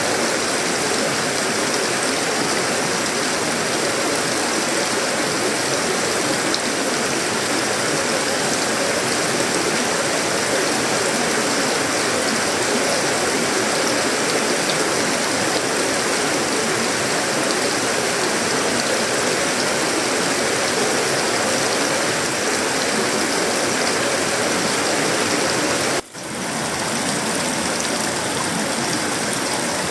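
Heavy, steady tropical rain drumming on a sheet-metal roof, wood and leaves. The sound cuts out for an instant near the end, then returns.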